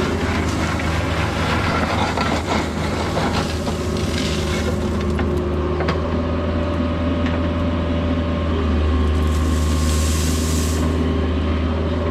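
Mini excavator's diesel engine running steadily while its bucket scrapes and rattles through crushed stone, with the clatter heaviest in the first five seconds. A hiss, likely from the hydraulics, sounds for about two seconds near the end.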